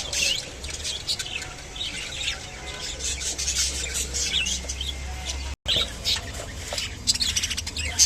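Budgerigars chirping and chattering in quick, high, scratchy calls, broken by a brief cut-out about five and a half seconds in.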